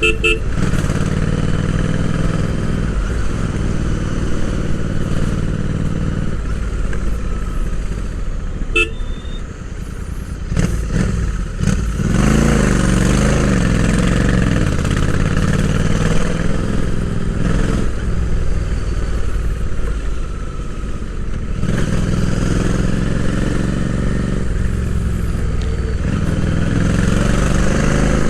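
Royal Enfield Interceptor 650's parallel-twin engine heard from onboard while riding, revs rising and falling through the gears, with road and wind noise. A brief horn-like beep near the start.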